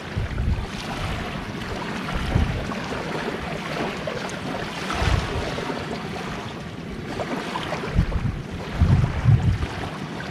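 Waves washing on a seashore, with wind buffeting the microphone in irregular low gusts, strongest near the end.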